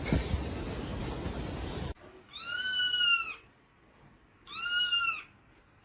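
A cat meowing twice, two drawn-out arched meows about a second apart, following a short stretch of steady background noise with a knock that cuts off about two seconds in.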